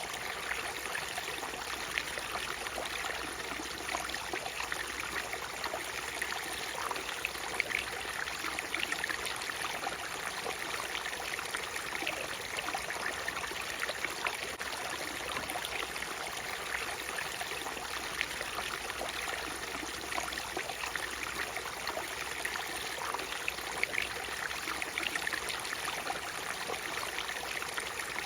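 Waterfall: a steady rush of falling water, with many little splashes through it.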